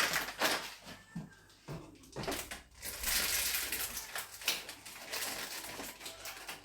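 Spice packets and small containers being handled: light knocks and clicks, then about a second and a half of crinkling plastic packaging a few seconds in.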